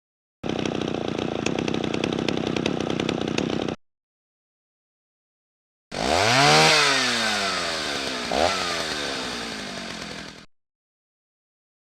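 Two separate power-tool sounds. First a steady buzzing run of about three seconds. Then, after a pause, a motor spins up quickly and winds down slowly over about four seconds, with a short blip of the trigger partway through the wind-down.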